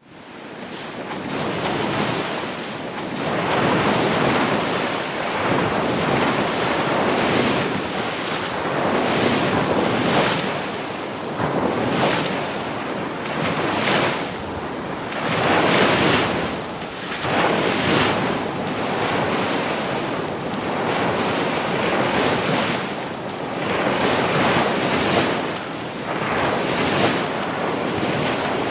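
Ocean surf, waves washing in one after another so the noise swells and eases about every two seconds; it fades in quickly from silence at the start.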